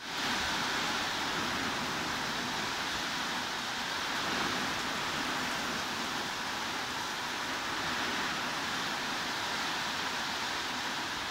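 Heavy rain falling in a steady, even hiss, coming back up a moment after a brief cut at the very start.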